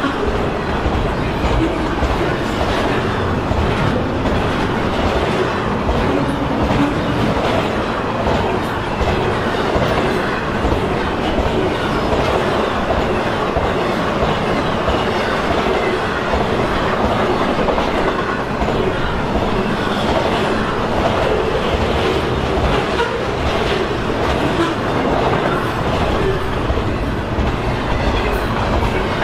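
Double-stack intermodal freight cars rolling past close by: a steady, loud rumble of steel wheels on rail, with constant clicking and clacking as the wheels pass over the track.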